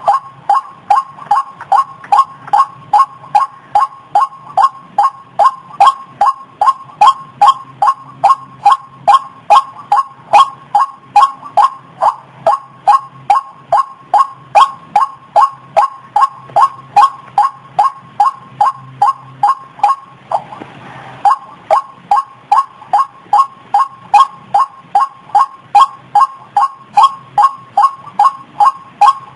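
White-breasted waterhen (ruak-ruak) calls looped as a bird-trapping lure: a fast, even series of short two-pitched calls, about three a second. The series breaks off for about a second roughly two-thirds of the way through, with a brief rush of noise, then resumes.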